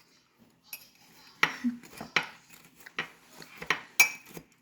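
Metal fork clinking and scraping against a ceramic mug while crushing cookies, a run of sharp taps about twice a second starting about a second and a half in.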